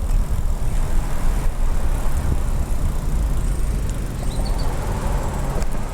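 Steady low rumble of wind and road noise while riding a bicycle, with a few faint bird chirps about four seconds in.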